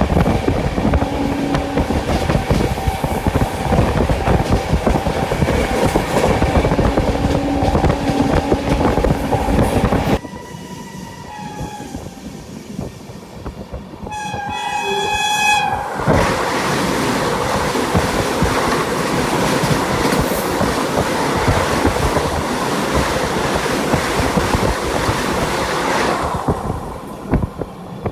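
Sampoorna Kranti Express running at speed, its wheels clattering over the rail joints. About ten seconds in the rail noise drops off suddenly and a train horn sounds in short blasts. About six seconds later the loud track clatter comes back.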